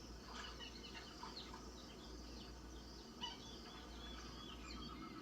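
Faint birds chirping: many short, scattered high calls over a low steady hum.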